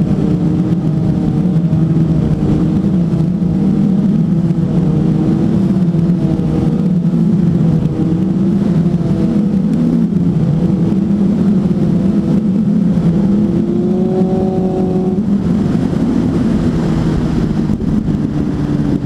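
Suzuki GSF 600 N's inline four-cylinder engine running while the bike is ridden, heard through its aftermarket exhaust. The engine pitch wavers with the throttle, climbs briefly about 14 seconds in and drops about a second later.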